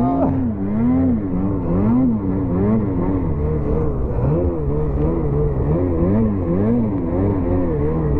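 Ski-Doo 850 snowmobile's two-stroke twin engine under way in deep snow, its revs rising and falling over and over, about once a second, as the throttle is worked.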